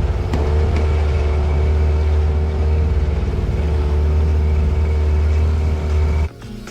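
Small aluminium fishing boat's outboard motor running steadily with a heavy low rumble, cutting off abruptly near the end.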